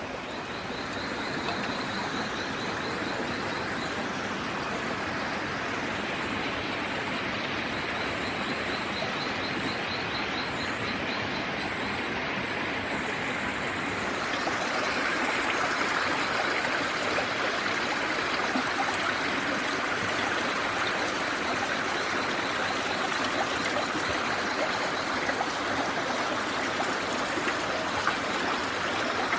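Steady rushing noise that grows a little louder about halfway through, with a fast, high ticking trill twice in the first half.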